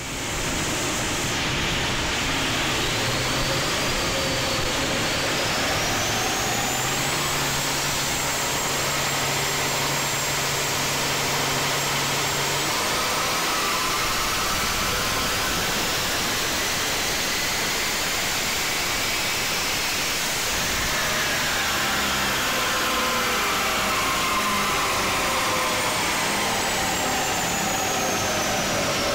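Twin-turbocharged Hyundai Genesis Coupe 3.8 V6 on a dyno pull. The engine and turbo whine climb in pitch in stages under load, then fall steadily as the run winds down.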